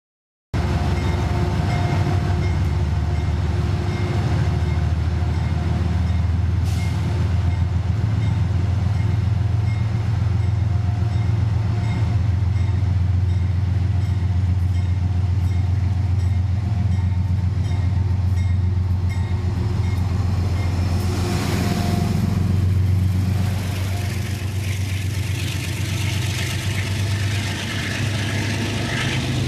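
Amtrak Genesis diesel locomotive running with a steady low drone as it pulls a passenger train slowly out of the station. It draws closer and passes with a louder rush a little past two-thirds of the way in, then the coaches roll by with wheel and rail noise.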